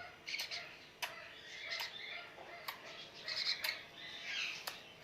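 Pet parrot giving short, high chirps and squawks in scattered bursts, with a few sharp clicks among them.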